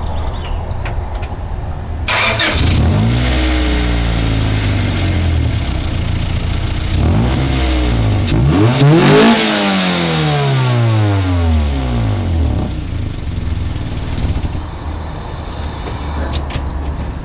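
Honda Prelude's four-cylinder engine idling, then revved three times, the last rev the highest, before settling back to idle. The exhaust note comes through an exhaust leak at the muffler, which was rusting through.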